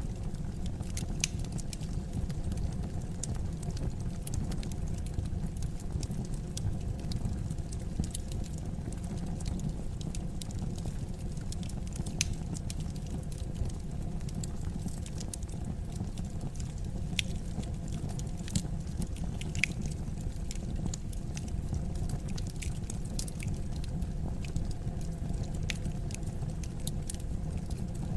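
Wood fire crackling in a fireplace: steady low flame noise with scattered sharp crackles and pops.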